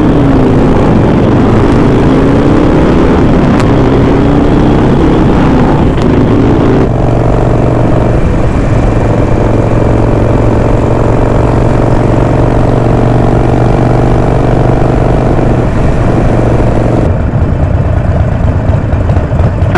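Harley-Davidson Sportster V-twin motorcycle riding off, its engine note rising as it accelerates over the first several seconds. It then holds a steady drone at cruising speed and eases off near the end.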